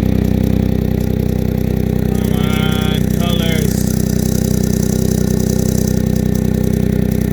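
Smart car's engine idling steadily, running again now that the fuel pump relay wires that had shorted together have been found.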